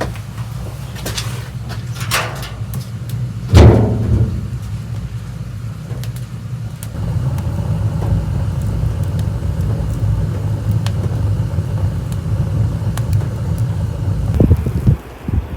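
Steady low rumbling noise, with one loud thump about three and a half seconds in, scattered light clicks, and another thump near the end.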